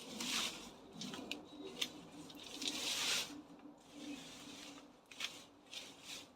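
Comfrey and other leafy plants being pulled and torn back by hand, rustling in several bursts with a few sharp snaps.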